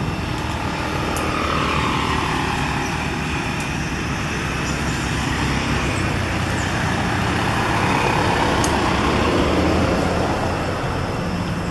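Steady motor-vehicle and road noise: a continuous low engine hum with a rushing band that slowly falls and rises in pitch.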